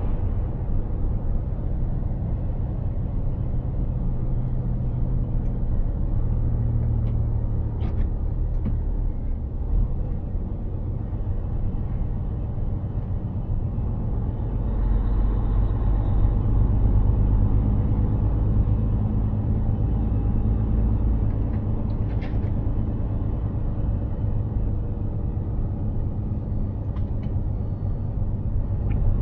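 Mercedes-Benz Actros 2763 truck under way: the inline-six diesel engine running with a steady low rumble from engine and road, its pitch shifting now and then and growing louder about halfway through.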